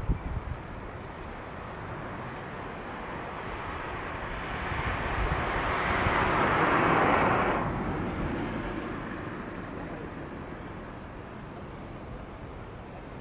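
A vehicle passing by, its noise swelling to a peak about seven seconds in, then dropping away quickly.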